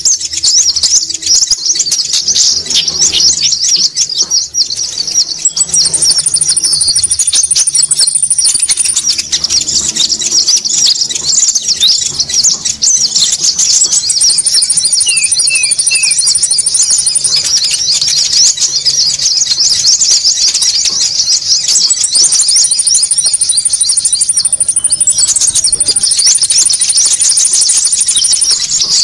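A dense, busy chorus of konin birds: many rapid, high chirps overlapping without a break, as used in a bird-lure call. A thinner, higher trill cuts in and out every few seconds.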